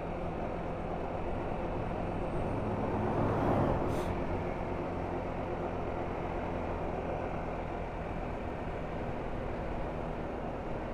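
Motorcycle engine running steadily under way, with road and wind noise. The engine swells briefly about three and a half seconds in, and there is a short sharp click at about four seconds.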